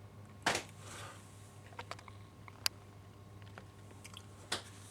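A few faint clicks and short rustles over a steady low hum, with a sharp click about halfway through.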